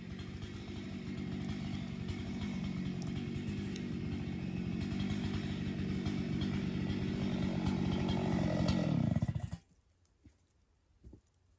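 Chainsaw running at high throttle through the felling cut on a dead ash tree, growing slightly louder, then dropping in pitch and cutting off about nine and a half seconds in.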